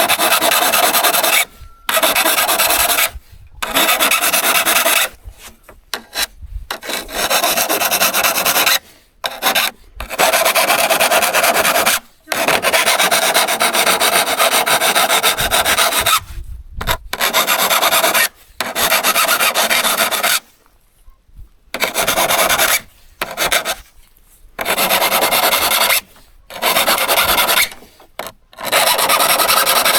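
A steel hand-saw blade being worked by hand with a file or abrasive, a dense scraping in runs of one to several seconds broken by short pauses.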